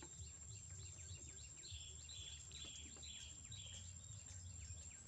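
Quiet outdoor ambience with a bird chirping in a steady series of short buzzy calls, about two a second, starting a little under two seconds in, over a constant thin high-pitched whine and a low rumble.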